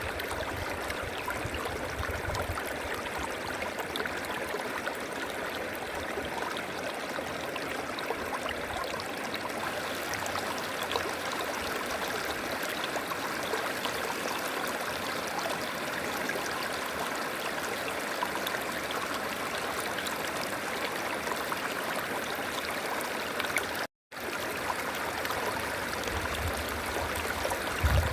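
River water flowing steadily, a continuous even rush. It cuts out for a split second near the end, and a low rumble comes in briefly at the start and again near the end.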